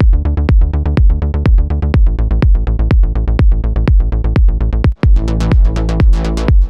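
Melodic house loop playing back from the production software: a four-on-the-floor kick drum at about two beats a second under a synth bass and a plucked synth melody. The playback drops out briefly about five seconds in.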